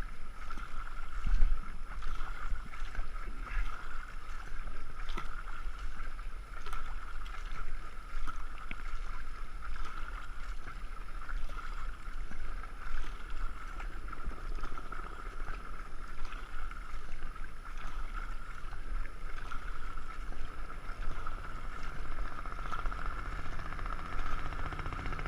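Racing canoe under way on a river: steady rush of water with scattered light knocks and splashes, heard through a GoPro's waterproof housing.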